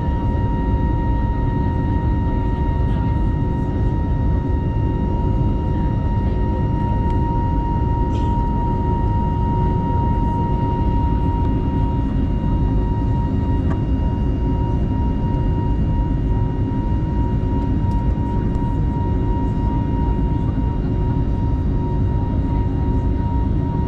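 Airbus A320's turbofan engines running steadily at climb power, heard from inside the cabin: a constant deep rumble with a steady whining fan tone and its overtones above it.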